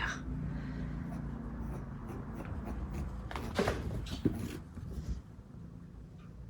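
Scratching and rubbing as a pet rabbit scrabbles about with a balloon in its mouth, with two short knocks a little past the middle, over a low steady hum that fades about five seconds in.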